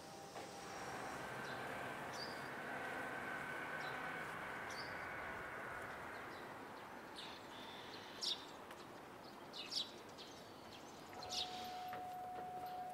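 Steady street background noise with a few short, high bird chirps in the second half. A faint steady hum comes in near the end.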